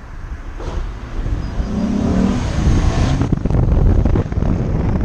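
Car engine rumbling and getting louder from about a second in, as if accelerating.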